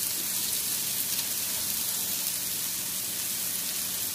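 Sliced green peppers, onions and mushrooms sizzling steadily in melted margarine on a hot flat griddle, with a faint crackle of spattering.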